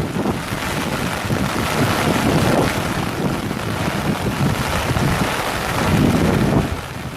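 Wind buffeting the microphone, a loud uneven rumble, over the steady rush of floodwater.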